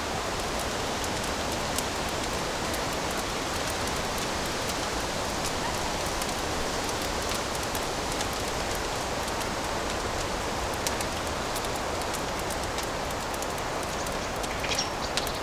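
Fireplace fire crackling: a steady hiss with many small scattered pops, and a brief cluster of louder crackles near the end.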